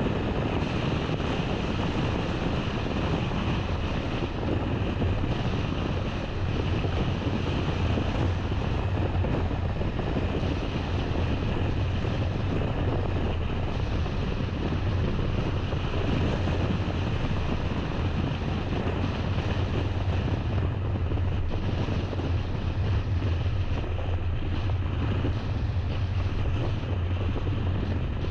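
A car driving along: a steady low engine and road hum with wind noise, unchanging throughout.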